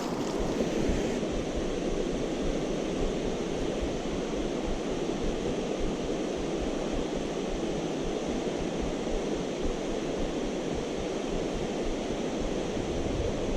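Creek rapids rushing: a steady, even roar of moving water.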